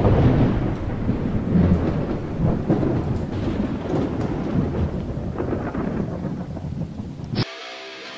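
Thunder rolling in a long rumble over steady rain. It swells at once and fades slowly over about seven seconds.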